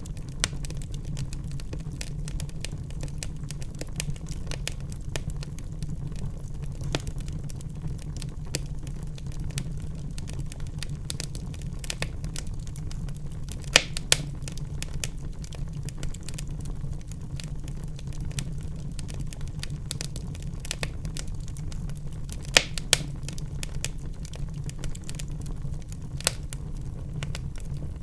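Wood fire burning in a fireplace: a steady low rumble of the flames with continual crackling and sharper pops, the loudest pops about halfway through and again later on.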